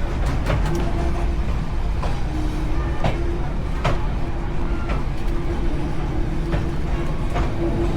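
Railway carriage running along the track: a steady low rumble with irregular sharp clicks of the wheels passing over rail joints, and a faint steady hum.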